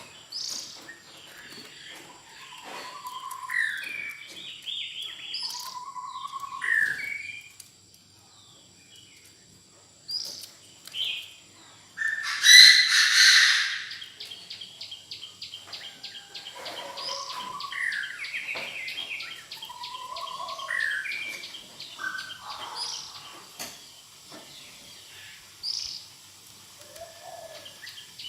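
Chinese francolin decoy calling: repeated phrases of several short, sliding, harsh notes with pauses between them, a call used to lure other francolins. About halfway through comes one loud harsh burst, followed for a few seconds by a fast, even ticking trill.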